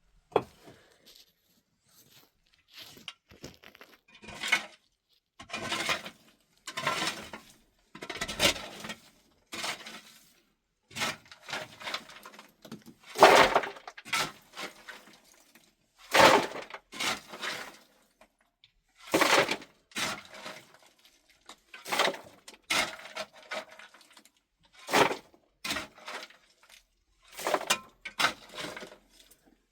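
A series of short, harsh, noisy strokes, roughly one every second or two, with silence between them.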